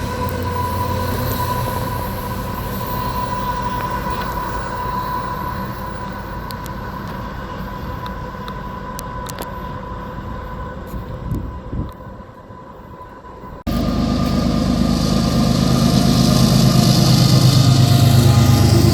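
CN freight train rolling past: steady rumble of the cars on the rails with a thin, steady high whine, fading somewhat toward the middle. About two-thirds of the way through it cuts off suddenly and a louder, low engine-like rumble takes over and swells.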